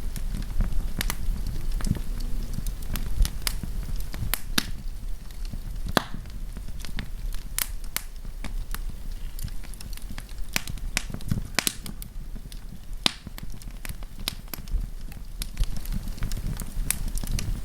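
Wood campfire crackling: irregular sharp pops and snaps from the burning wood over a steady low rumble of the flames.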